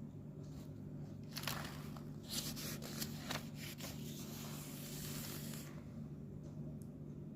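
Rustling and scraping handling noise with a few sharp clicks, and a longer dense rustle from about two to six seconds in, over a steady low hum.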